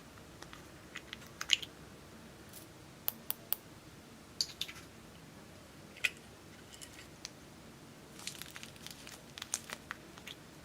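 Slime being worked by hand, giving scattered sharp clicks and pops from trapped air, some in quick clusters and the loudest about one and a half seconds in.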